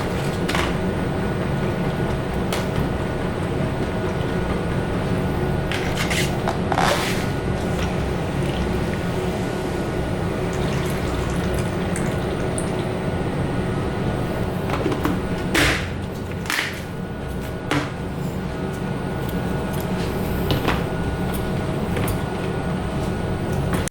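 Steady airy hiss of a paint spray gun laying on clear coat, over the constant hum of spray-booth ventilation, with a few brief sharp sounds along the way.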